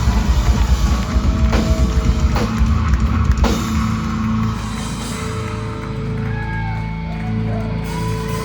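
Live rock band with drum kit and electric guitar playing loudly, with a few sharp drum hits. About three and a half seconds in the drumming drops away, leaving held and bending guitar notes ringing.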